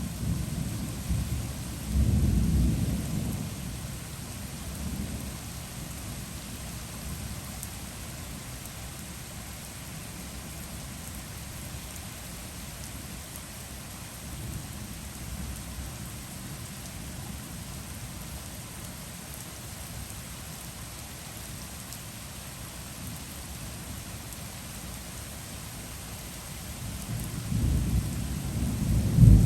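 Heavy typhoon rain falling steadily while thunder rumbles: one low rumble about two seconds in, and a louder one building near the end.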